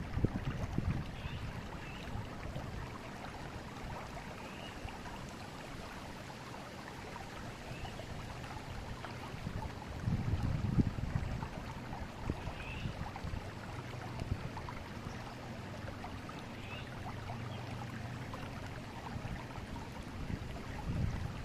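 Forest river flowing steadily, with low gusts of wind on the microphone near the start and about ten seconds in, and faint short bird chirps every few seconds.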